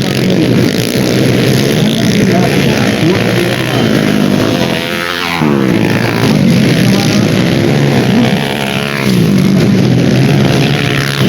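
Racing dirt bike engines revving hard and changing pitch as the bikes accelerate and shift, with one bike passing close about five seconds in, its pitch falling as it goes by.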